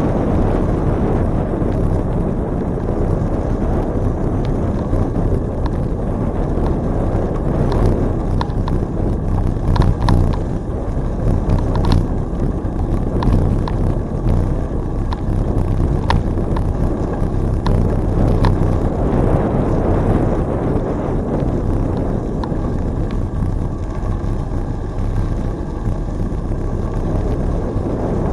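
Steady wind rushing over the microphone of a camera on a moving bicycle, strongest in the low end, with scattered light clicks through the middle stretch.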